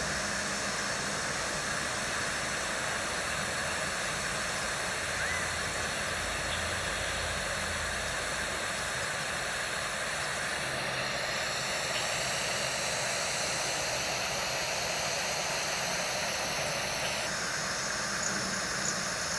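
Steady, even hiss of outdoor background noise, with one faint short chirp about five seconds in.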